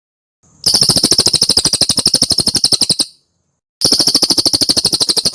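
Cililin bird singing two long, rapid trills of sharp, high, chattering notes, about a dozen notes a second, with a short pause between them.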